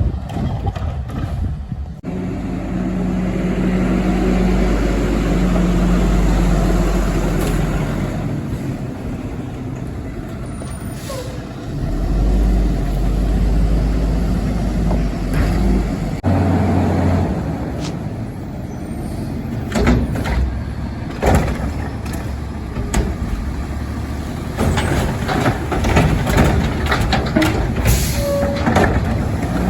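Front-load garbage truck's diesel engine running, getting louder in two spells, with sharp metal knocks and clatter in the second half.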